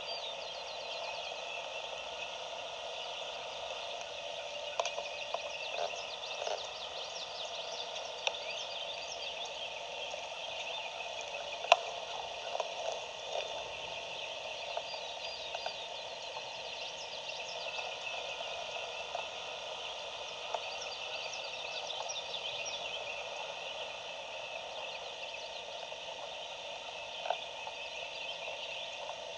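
A steady outdoor frog chorus runs throughout, with small chirps in it. There are a few short clicks, the sharpest about twelve seconds in.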